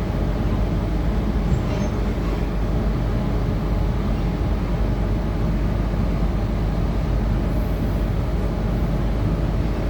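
Steady running noise from inside a Tangara electric train at speed: a constant low rumble of the wheels on the rails and the carriage.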